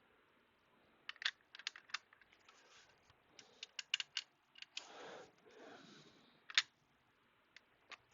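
Irregular light clicks and taps, with a brief scraping slide about five seconds in, as the plastic parts of a mini PC are handled and worked open.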